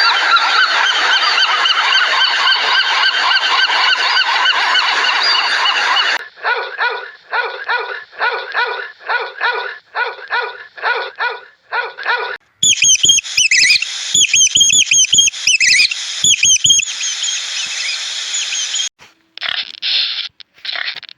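Geese honking in a series of abruptly cut clips: first a dense flock chorus, then a run of separate honks about two a second, then higher, sharper calls with low thumps underneath, and another calling chorus near the end.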